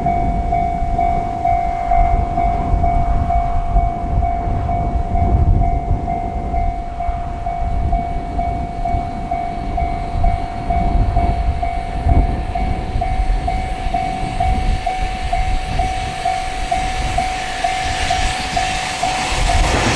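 E001 Train Suite Shiki-shima electric train approaching, a low rumble with its running noise swelling near the end as it comes close. A steady high electronic warning tone pulses about twice a second throughout.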